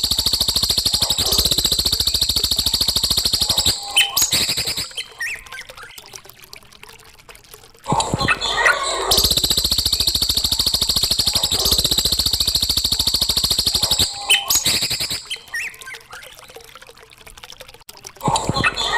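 Looped recording of songbird song played as a tutor song for cage birds. A fast, high, continuous trill lasts about four seconds, then gives way to scattered chirps and softer calls. The same sequence repeats about every ten seconds.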